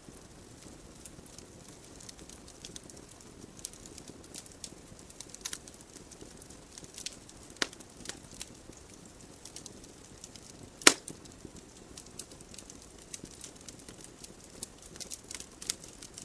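Wood fire burning in a fireplace: scattered crackles and snaps of burning logs over a soft, steady hiss of flame, with one sharp loud pop about eleven seconds in.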